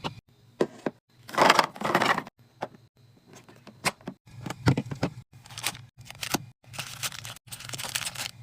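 A quick series of handling sounds: sharp clicks, crackling and crinkling of plastic packaging and tearing, in short bursts broken by sudden cuts to silence.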